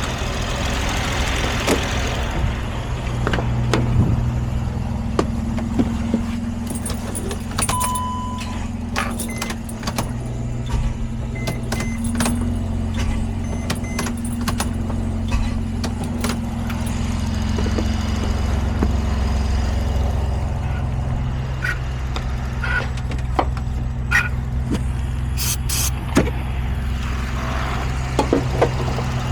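Mercedes Sprinter's OM642 3.0-litre V6 diesel running steadily, with scattered light clicks and rattles over the engine note.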